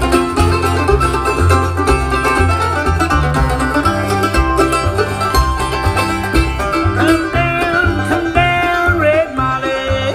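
Bluegrass band playing an instrumental break, banjo rolls leading over guitar and a steady bass line.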